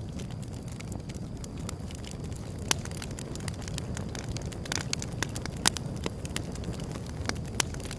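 Wood fire burning with a steady low rush and scattered sharp crackles and pops, two louder pops about a third and two-thirds of the way through.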